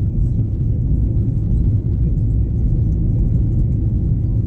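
Steady low rumble of an Airbus A321 passenger cabin, heard from a window seat near the rear.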